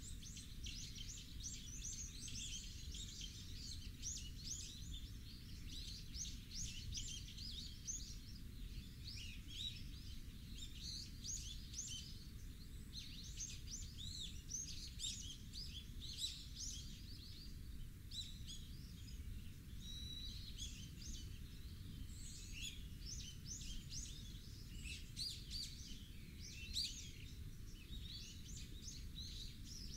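Many small birds chirping and calling in short, irregular notes, heard continuously over a steady low rumble.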